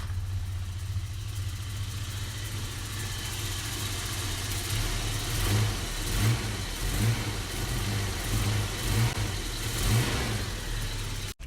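Isuzu 4ZE1 four-cylinder petrol engine idling, just started after standing for months, with a few light blips of the throttle in the second half.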